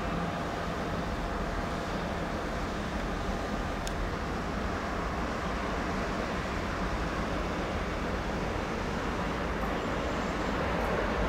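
Steady rumbling noise of a train running through a railway station, with a faint high tone dying away in the first few seconds and the noise growing a little louder near the end.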